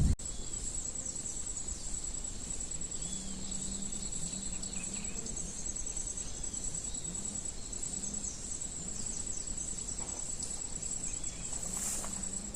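Insects trilling steadily at a high pitch, with a few faint bird chirps over the top. There is a short rustle near the end.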